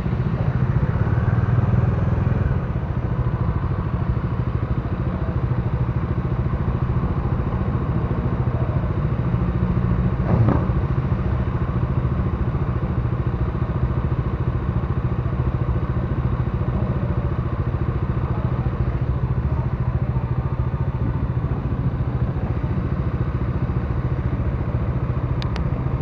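Bajaj Dominar 400's single-cylinder engine running steadily, with one brief knock about ten seconds in.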